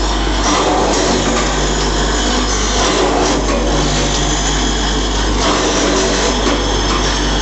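Motorcycle brake shoe side grinding machine running steadily, grinding the sides of the brake shoes, with a constant motor hum under the grinding noise.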